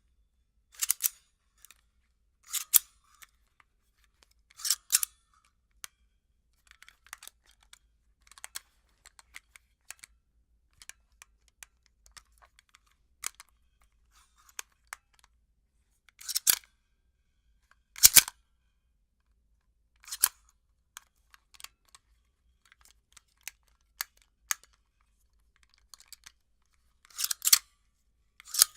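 Gun being handled, its metal action making sharp clicks and clacks as it is worked: cocking, racking and loading sounds. The clicks come at uneven intervals, the louder ones often in quick pairs every couple of seconds, with fainter ticks between them.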